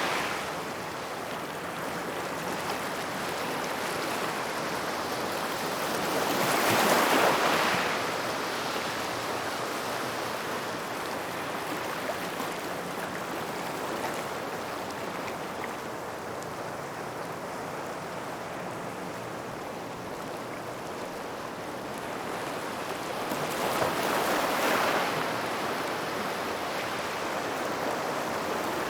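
Small waves washing in on a gravel beach near rocks, with a steady wash of surf. Two waves break louder, about seven seconds in and again near twenty-four seconds.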